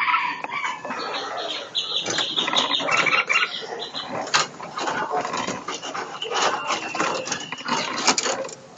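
Small caged songbirds calling in a breeding aviary: a busy run of high chirps and squeaky calls mixed with many sharp clicks and knocks.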